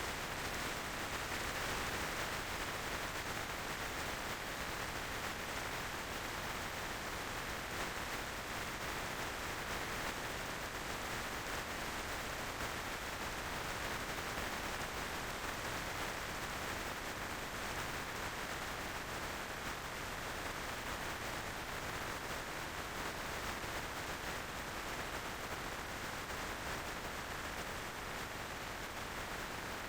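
Steady rush of wind and road noise on the microphone of a motorcycle riding at speed. It is an even hiss, strongest in the middle range, with no engine note standing out.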